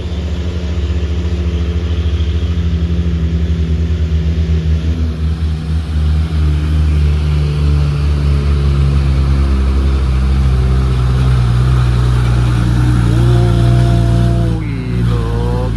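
Heavy diesel truck engine labouring up a steep climb, a deep pulsing drone. About thirteen seconds in the revs rise and hold, then drop at a gear change and rise again.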